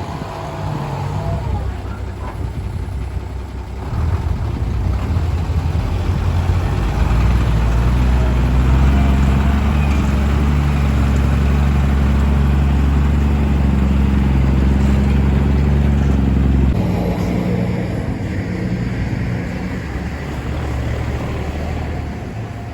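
Diesel engine of a ten-wheel dump truck running close by: a deep, steady engine note that builds from about four seconds in, holds loud through the middle, then drops away suddenly about three quarters of the way through.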